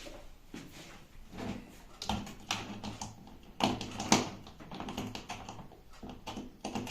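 Irregular knocks, taps and clicks as the microwave oven is handled and set in place. The loudest clunks come past the middle and near the end.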